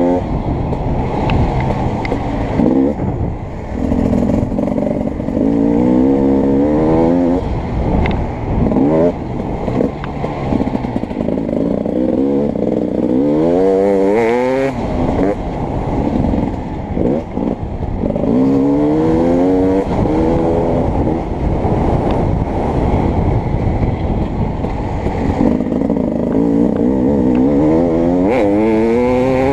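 Beta 300RX two-stroke dirt bike engine being ridden hard, its pitch climbing again and again as the throttle is opened, then dropping as it is shut off.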